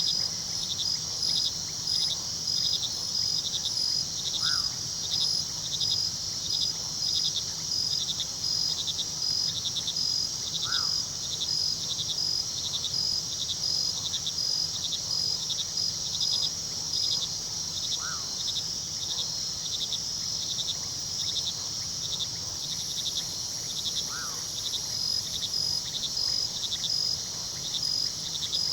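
Crickets chirping in a steady night chorus: a continuous high trill with regular pulsed chirps, over the low steady rush of a river. A short falling call sounds about every six seconds, four times.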